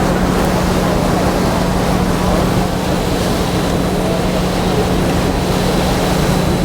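Harbor tour boat underway: its engine keeps up a steady low hum under the rush of water and wind.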